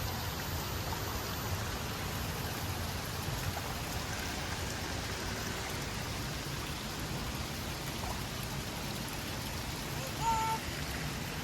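Steady wash of water noise from the forest stream and waterfall where the child is playing. Near the end, a child's brief high voice.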